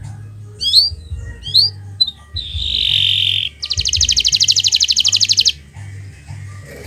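Kenari Nusantara canary singing: two quick rising chirps, then a buzzy held note, then a fast, even trill of about a dozen notes a second lasting nearly two seconds.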